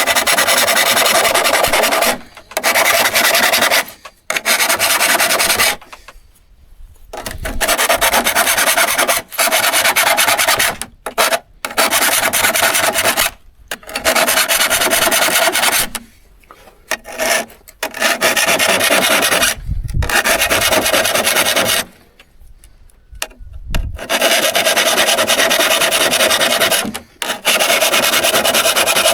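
Hand abrasive work on a steel hand saw: a steady rasping scrape in bouts of two to three seconds, stopping and starting about ten times.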